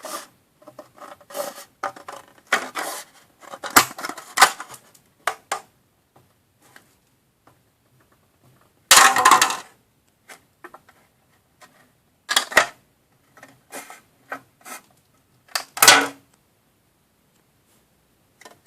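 Small plastic kit pieces and utensils being handled on a table: scattered clicks, taps and rustling, with a louder rustle lasting about a second around halfway and a few sharp knocks later.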